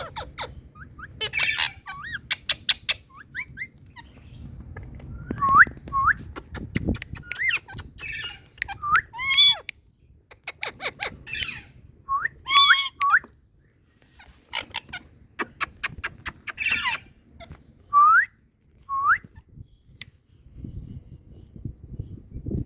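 Indian ringneck parakeet calling: a series of short, upward-sweeping whistles mixed with harsh squawks and sharp clicks, broken by brief pauses.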